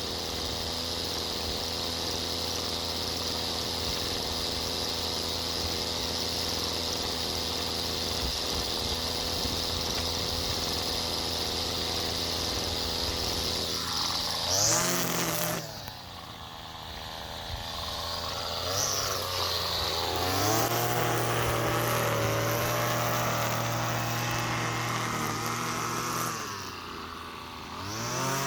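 Gas string trimmer (weed whacker) running at full throttle, its line cutting grass. About two-thirds of the way through it is throttled down to a low idle, revved back up a few seconds later, then let down again and revved up near the end.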